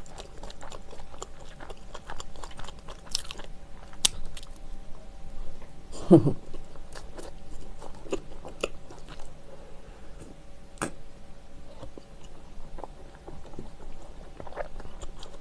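Close-up chewing of soft, fluffy bread: scattered moist mouth clicks and ticks, with a short hum about six seconds in.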